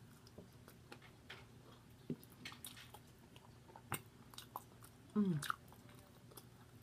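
Close-up mouth sounds of someone chewing seasoned french fries: soft biting and chewing with scattered small wet clicks and smacks. About five seconds in there is one short hum of the voice that falls in pitch.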